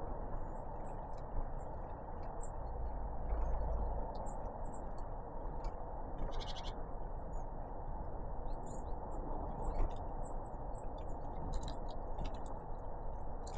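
Small tits, great tits and blue tits, giving short high chirps and calls at a feeder, with scattered sharp clicks and taps and a brief rattle about halfway through, over a steady low hiss.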